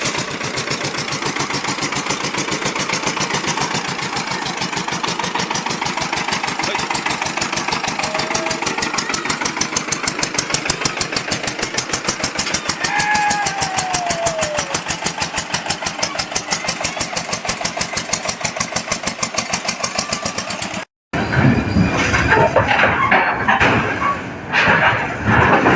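A heavy vehicle engine running with a rapid, very even pulsing beat, with a brief falling whistle-like tone about halfway through. After a cut about 21 s in, a rougher, uneven mechanical noise follows.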